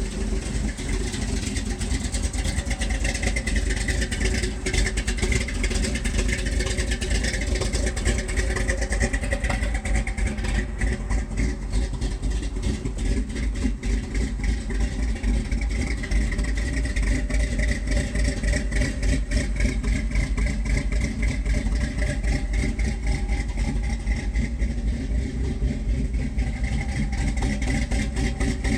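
Ford 351M/400 V8 with a Holley 4160 four-barrel carburetor idling steadily through headers and a dual Flowmaster exhaust after a cold start. The owner takes the rough cold idle for the engine running rich on an electric choke set to release too late.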